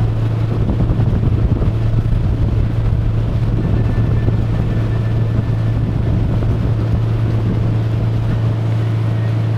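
Motorboat engine running at a steady drone, with wind buffeting the microphone, most strongly in the first few seconds.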